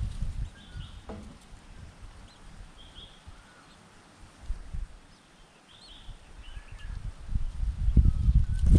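Short, faint bird chirps scattered throughout, over low rumbling noise that swells in the last few seconds and becomes the loudest sound.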